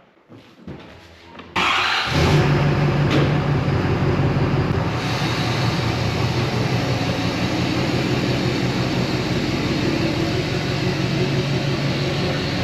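Pickup truck engine starting: it catches suddenly about a second and a half in, flares briefly, then settles into a steady idle.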